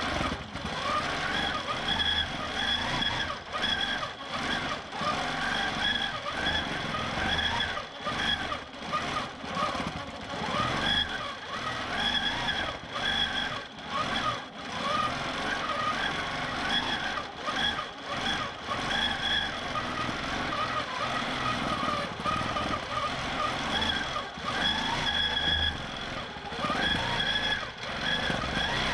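Q'nique 19 longarm quilting machine stitching in stitch-regulated mode: a continuous motor whine that wavers in pitch as the speed changes, with brief dips every second or two.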